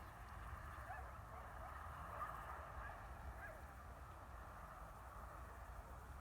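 Faint chatter of a distant flock of birds, many short calls overlapping into a steady murmur, with a low rumble underneath.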